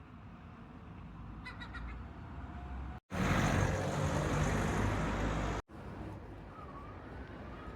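Outdoor ambience in three short clips cut together: a steady background with a few bird chirps, then a louder rumbling stretch of about two and a half seconds, then quieter ambience with a short wavering bird-like call.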